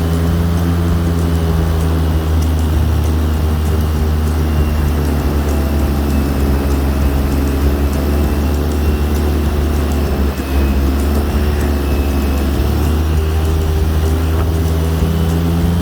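Airboat's engine and air propeller running steadily under way, with a short dip in loudness about ten seconds in.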